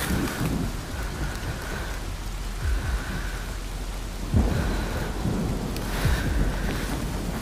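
Rain hissing steadily on and around the camera's microphone, with low rumbles and thumps from the camera being jostled as the player moves, the strongest a little past halfway.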